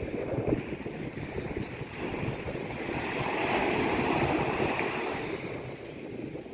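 Sea waves breaking and washing in, one swell building to a peak about three to four seconds in and then fading away.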